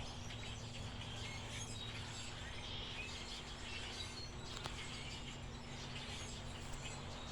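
A large flock of birds calling all at once: many short overlapping chirps, over a steady low hum.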